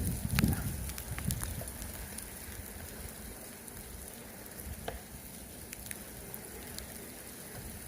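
Crackling, crunching and scraping of snow being cleared from around a car, dotted with small clicks. A low rumble is strongest in the first second or so.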